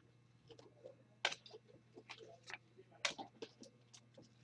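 Trading cards being handled and flipped through: soft scattered clicks and flicks of card stock, the strongest about a second in and again about three seconds in, over a faint steady low hum.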